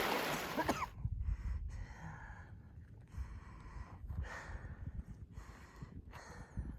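A rushing creek for under a second, then the heavy breathing of a hiker climbing a mountain pass: breathy puffs about once a second over a low rumble.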